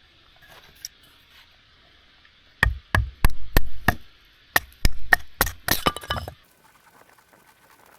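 A run of about a dozen sharp knocks in two quick bursts, each a hard strike with a dull thud under it. It cuts off abruptly about six seconds in.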